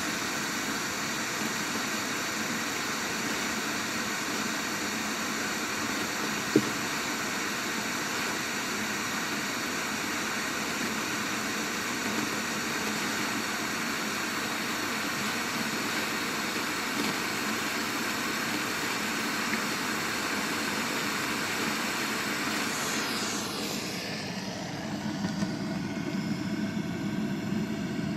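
Steady rushing hiss with faint steady tones, picked up by a microphone at the bottom of an 18 m borehole and played back through a speaker; the Ministry of National Defense says it is wind. About 23 seconds in the high hiss falls away with a descending sweep, leaving a lower, rougher rumble.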